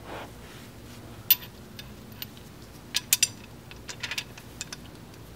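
Metal hand tools clinking and clicking: a single sharp clink about a second in, three quick ones around three seconds, and a few more a second later.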